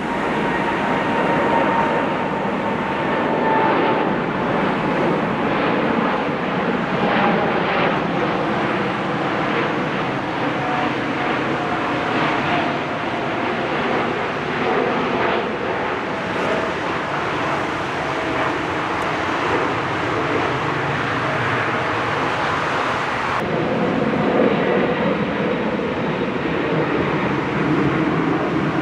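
Airbus A380 turbofan engines and airframe rumble during a landing, a steady rush with an engine whine that slowly falls in pitch as the engines wind down. About 23 seconds in the sound changes abruptly to another landing clip.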